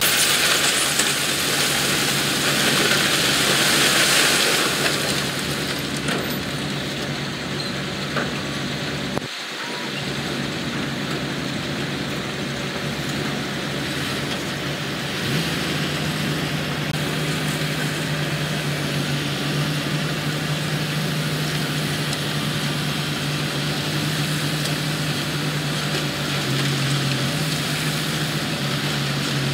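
Heavy construction machinery working, diesel engines running. There is a hissing stretch in the first few seconds, a brief dip about nine seconds in, then a steady low engine hum.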